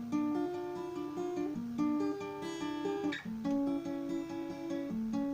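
Acoustic guitar playing an instrumental passage between sung verses, strummed chords with a melody of single notes changing at a steady rhythm.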